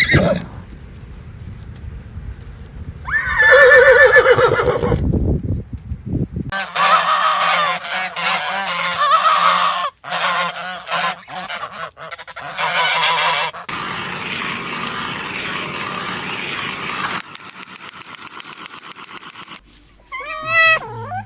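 Geese honking in several short takes one after another: a long call about three seconds in, then a dense stretch of many overlapping honks. A fast run of clicks follows, and high wavering calls begin near the end.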